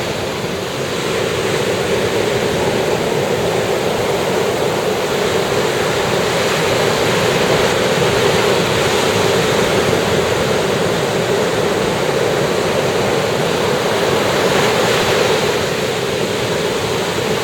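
Ocean surf washing onto a sandy beach, a steady rush of breaking waves that swells slightly midway and eases a little near the end.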